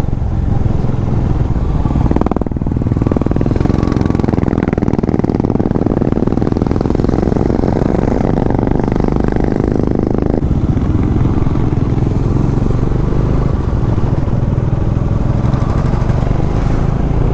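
Bajaj Dominar's single-cylinder engine running steadily as the motorcycle rides along, with a rushing noise on top of it from about two seconds in until about ten seconds in.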